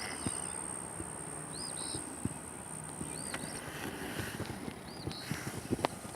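Outdoor ambience: a bird repeating a short chirp about every second and a half, over a steady high-pitched whine that stops about halfway through, with scattered soft knocks and ticks.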